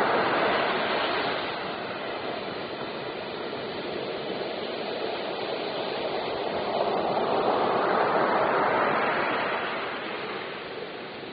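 Steady rushing water, swelling louder about two-thirds of the way through and easing off near the end.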